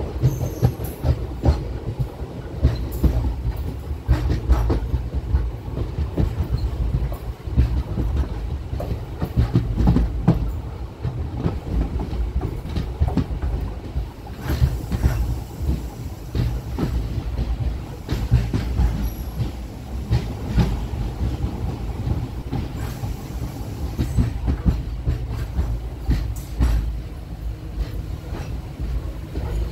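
Indian Railways passenger train running at speed: a steady low rumble with many irregular clicks and knocks from the wheels and coach.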